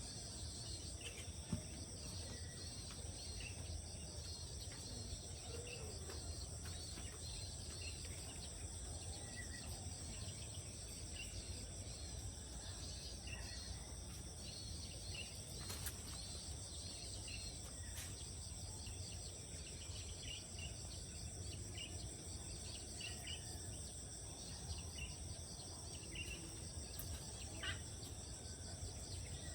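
A steady high-pitched chorus of insects, with one band pulsing rapidly, and scattered short bird chirps over a low rumble.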